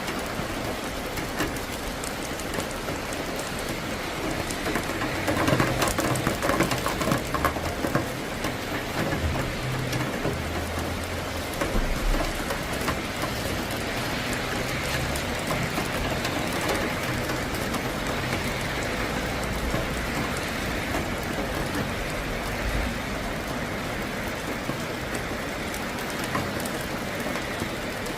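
Rain falling steadily on hard surfaces during a thunderstorm, with a louder stretch and a low rumble from about five to twelve seconds in.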